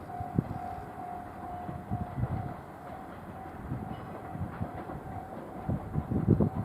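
KiHa 110-series diesel railcar train at a station. A steady tone beeps about two to three times a second over a low rumble, with several dull low thumps, the loudest near the end.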